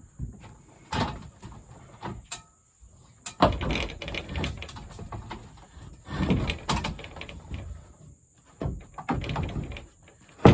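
Plastic shed parts being handled and fitted together: irregular bursts of knocks, thumps and rattles, a second or two apart.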